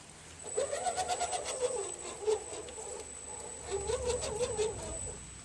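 Redcat Gen7 RC crawler's electric motor and geartrain whining under throttle, the pitch wavering up and down as it crawls, with a thin steady high whine from the speed controller and scattered ticks.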